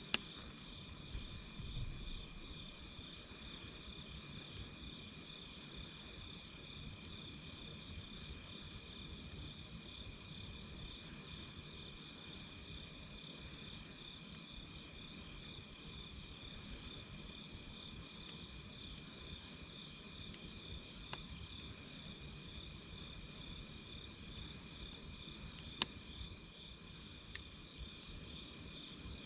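Insects chirring in a steady, fast-pulsing trill over a low campfire hiss, with a few sharp crackling pops: one just after the start and two near the end.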